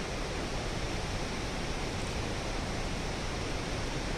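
Torc Waterfall's cascade, a steady rush of falling water.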